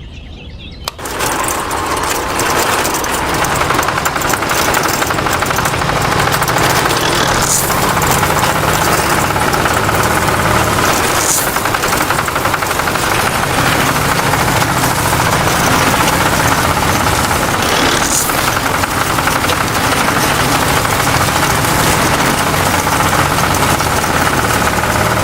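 Small motor of a homemade miniature tractor starting up about a second in, then running steadily.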